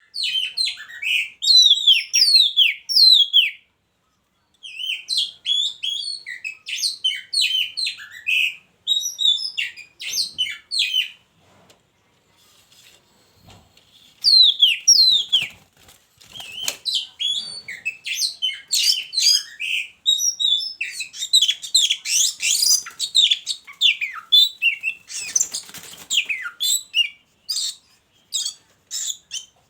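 Caged oriental magpie-robins (kacer), a pair put together for breeding, singing a rapid, varied stream of high chirps and sweeping whistled notes. The song breaks off briefly about four seconds in and goes quiet for a couple of seconds near the middle.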